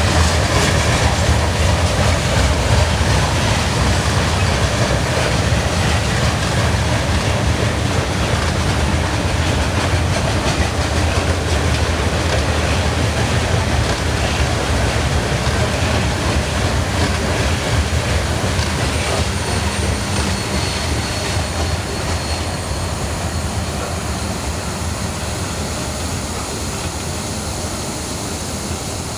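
Cars of a Norfolk Southern mixed freight train rolling past, a steady rumble of steel wheels on the rails that slowly grows quieter.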